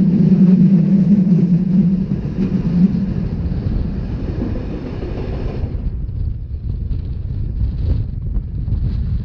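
Rhaetian Railway narrow-gauge train running, heard from on board with wind on the microphone. There is a steady low hum at first, and about six seconds in the higher hiss cuts off suddenly, leaving a low rumble and wind buffeting.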